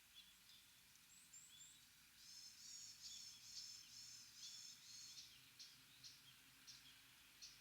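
Small birds calling in quick runs of high, thin chirps, with scattered single notes around them, faint over a soft background hiss.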